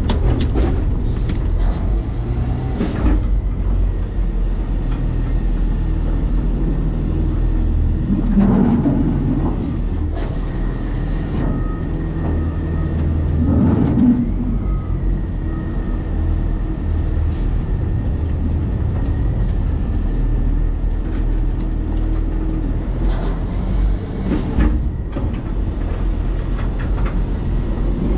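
Side-loader garbage truck running steadily, its engine and hydraulics rumbling, with several sharp clanks and thuds spread through. A faint steady whine is held for about ten seconds in the middle.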